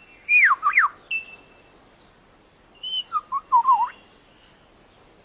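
Male superb lyrebird singing: loud whistled notes that slide downward in two short phrases, one about a third of a second in and one about three seconds in.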